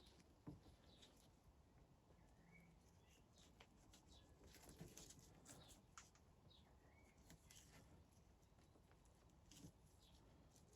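Near silence: scattered faint clicks and taps, with a couple of faint short bird chirps.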